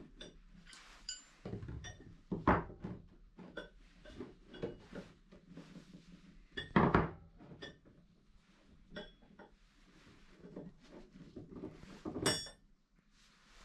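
Metal pieces clinking and knocking as they are handled and set down, with two heavier knocks and a ringing metallic clink near the end.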